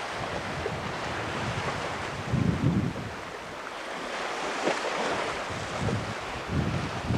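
Sea waves washing in, one surge swelling about two-thirds of the way through, with wind buffeting the microphone in low rumbling gusts.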